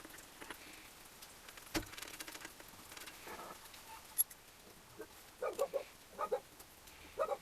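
Light metallic clinks, taps and knocks of tools and small engine parts being handled during engine assembly, with a sharper knock about two seconds in and a quick run of clinks near the end.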